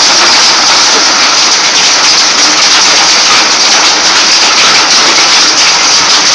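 Hail pelting a roof: a loud, dense, continuous rattle of many small impacts.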